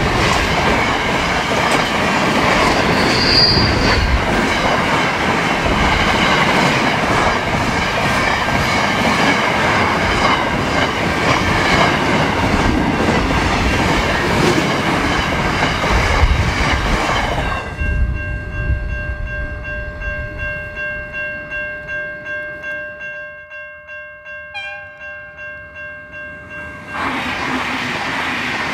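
Diesel train running past on the rails: dense wheel-on-rail noise with some clickety-clack and a brief high wheel squeal a few seconds in. About two-thirds of the way through the noise cuts off suddenly, leaving a ringing that strikes about twice a second. Rail noise rises again near the end.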